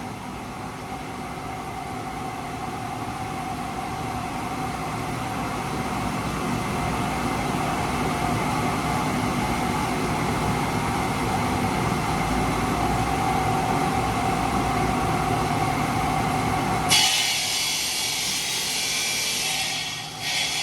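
Steady industrial machine noise with a held whine, growing slowly louder. About seventeen seconds in it cuts abruptly to a harsher, higher-pitched grinding hiss.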